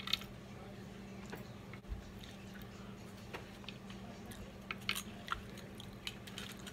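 Close-up chewing and biting of fried chicken, with scattered short crunches and clicks, some from a fork against a plate.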